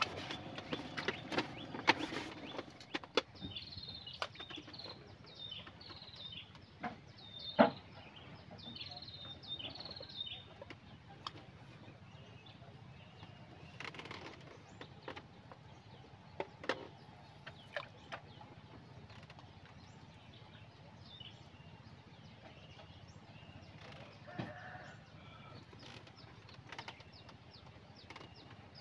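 A bird calling in a run of short, falling chirps, roughly one or two a second for several seconds, among scattered knocks and clicks, the loudest knock in the middle of the chirping.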